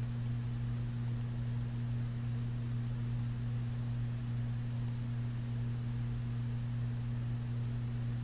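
Steady low electrical hum, one deep tone with a fainter one above it, over constant hiss, with a few faint ticks.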